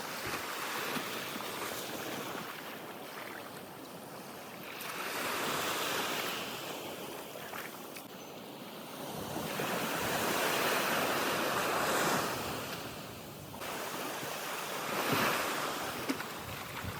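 Open-sea water washing, with wind buffeting the microphone; the wash swells and eases in slow surges every few seconds.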